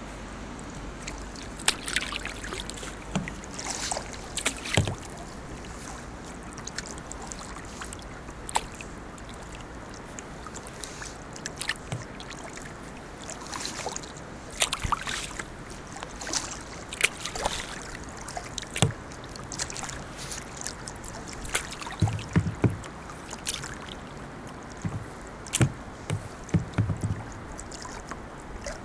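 Kayak paddle splashing in river water at irregular intervals, over a steady rush of flowing water.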